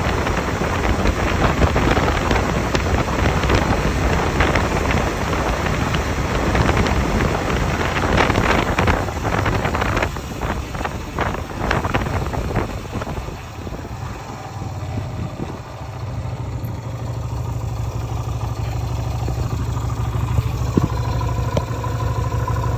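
Yamaha Virago 125's air-cooled V-twin on the move, mostly buried under wind and road noise. The noise falls away about halfway through, and the engine then idles steadily.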